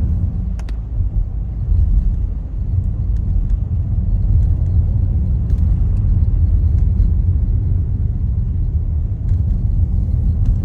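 Steady low rumble of a moving car's road and engine noise, with a few faint clicks.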